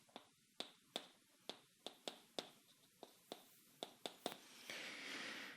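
Faint, irregularly spaced sharp clicks or taps, about a dozen, then a soft hiss for about a second near the end.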